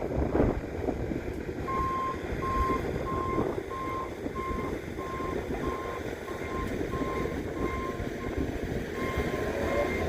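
Backup alarm of a Bobcat beeping steadily, about three beeps every two seconds starting a couple of seconds in, over the machine's engine running.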